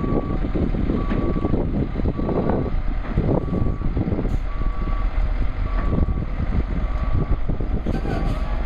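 A heavy vehicle's reversing alarm beeping steadily, about one half-second beep a second, over the loud, continuous rumble of heavy engines working.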